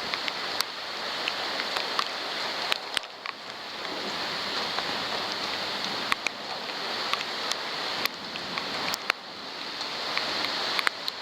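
Heavy thunderstorm rain pouring down, with many drops clicking sharply as they strike the waterproof camera's housing.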